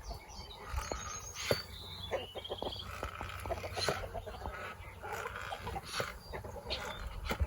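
Outdoor farmyard ambience: small birds giving short high trilled chirps, with scattered light clicks and knocks over a low rumble.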